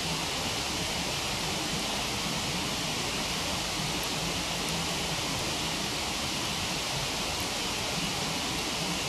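Steady rushing of a waterfall, with a few faint ticks from the crackling wood fire.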